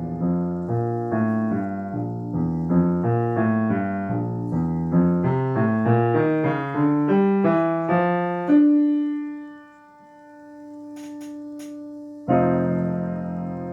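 Solo acoustic piano playing classical music: a run of chords, about two a second, ends on a loud note at about eight and a half seconds that is held and fades. A few faint clicks sound in the pause, then a new chord comes in near the end.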